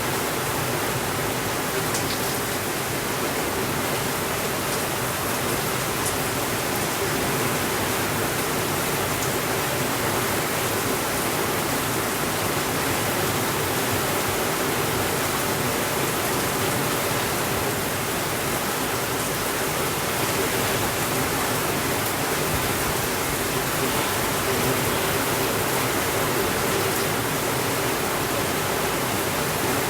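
Steady rainfall, an even hiss with no thunder, with a few faint clicks about 2 and 6 seconds in.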